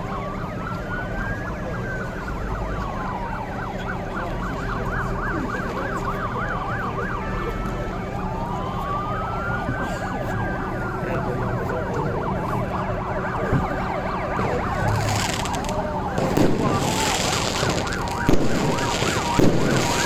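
Several fire engine sirens sounding together: a slow wail rising and falling twice over fast, continuous yelping tones. From about three-quarters of the way in, a noisy rush with several sharp loud cracks joins them.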